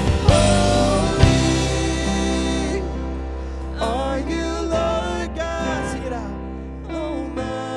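Live worship band music: full band with drums for the first few seconds, then easing into soft held chords with a voice singing a few gliding notes over them.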